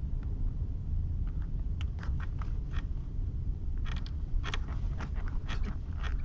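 Driver's seat of a 2020 Subaru Forester creaking in short clusters as the car rocks gently on a rough road. A steady low rumble of road noise fills the cabin. The creaks begin about two seconds in and come thickest near the end.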